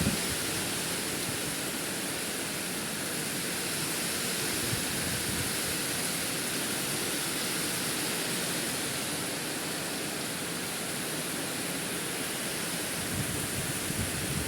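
Heavy rain pouring down in large drops, a steady dense hiss with strong wind.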